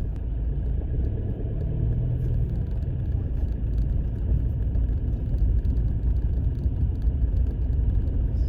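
Pickup truck driving: a steady low rumble of engine and road noise.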